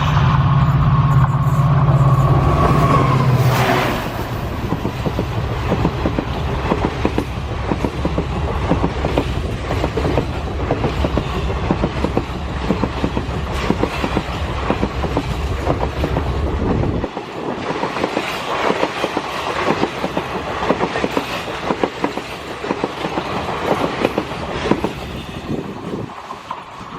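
Diesel passenger train passing: a loud steady horn tone ends about three and a half seconds in, then the coaches run by with a continuous clickety-clack of wheels over rail joints. The low rumble drops away suddenly about two-thirds of the way through, leaving lighter wheel clatter.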